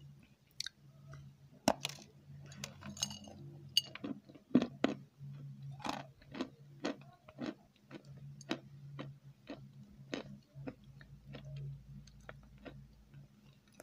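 Close-miked chewing with wet mouth clicks, a sharp click about every half second.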